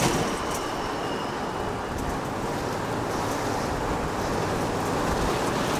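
Steady road and tyre noise of a moving vehicle, starting abruptly as a constant rush.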